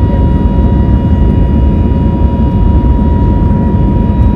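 Cabin noise inside an Airbus A320neo climbing out after takeoff: a loud, steady rumble of the engines and airflow, with a constant thin hum running through it.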